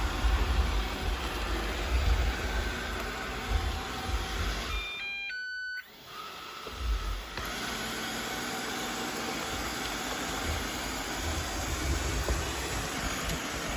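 Ecovacs Deebot N79S robot vacuum running, a steady noise of its suction fan and brushes over a low rumble. About five seconds in the sound cuts out briefly with a few short beep-like tones, then the running noise resumes.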